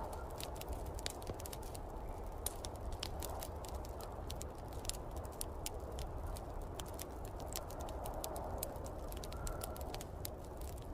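Wood fire crackling in a fireplace, with irregular sharp pops and snaps, over the steady rumble and swelling gusts of snowstorm wind.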